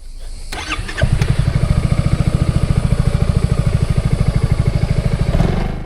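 Motorcycle engine starting: a second of cranking, then it catches and idles with an even, rapid exhaust beat, fading out at the end.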